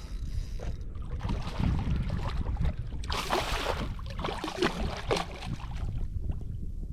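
Wind buffeting the microphone, a steady low rumble, with a short hissing burst of noise about three seconds in.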